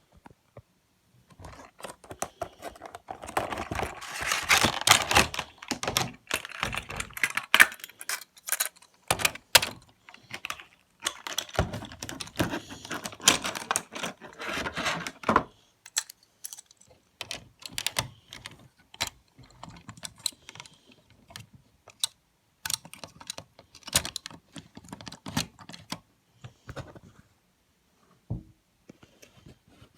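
A model locomotive's box and plastic packaging being opened and handled: dense rustling and crinkling with many small clicks for the first half, then scattered clicks and taps.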